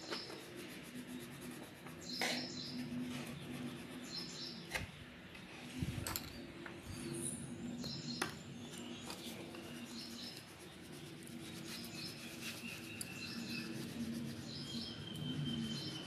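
Small birds chirping in short high bursts every second or two, over a soft steady background tone, with a few light clicks.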